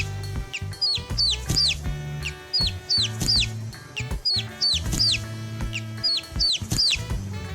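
Chicks peeping: high peeps, each falling in pitch, coming in quick runs of two or three. Background music with low bass notes runs underneath.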